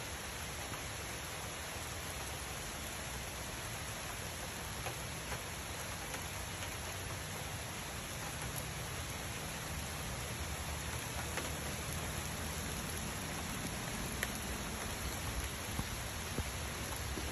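Heavy rain pouring down steadily, with a few sharper drip ticks, more of them near the end.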